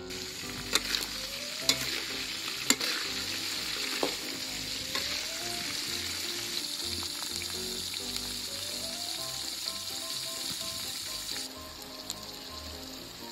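Tarantulas deep-frying in oil in a metal wok, sizzling steadily, with a few sharp clinks of a metal spatula against the wok in the first four seconds. The sizzle drops away near the end.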